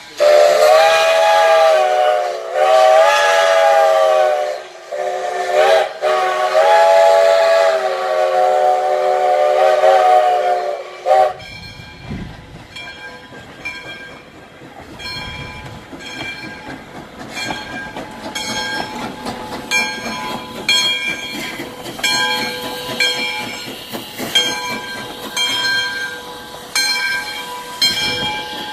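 Steam locomotive whistle blown in one long blast of several tones together, its pitch wavering slightly, cutting off about eleven seconds in. The locomotive then hisses steam, with short knocks and clanks.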